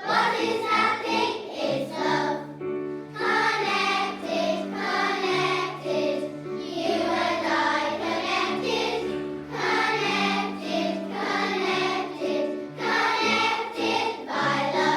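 A choir of young schoolgirls singing a song together over musical accompaniment that holds steady low notes.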